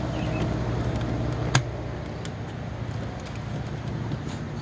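Steady low background hum, with one sharp click about a second and a half in and a few faint ticks.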